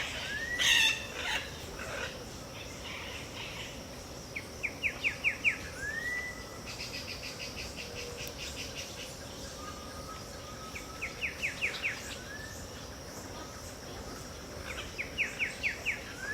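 Dawn chorus in the Brazilian Pantanal: one bird repeats a phrase of about five quick, sharp notes ending in a single arched whistle, three times at intervals of several seconds, over a steady high insect hiss. A louder bird call sounds near the start, and a rapid pulsing trill runs for a few seconds about a third of the way in.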